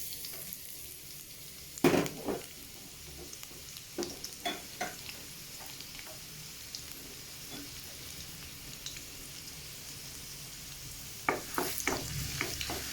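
Chopped garlic sizzling in hot vegetable oil in a frying pan, a steady hiss, with a few knocks of a utensil against the pan as it is stirred: about two seconds in, a few more around four to five seconds, and a cluster near the end.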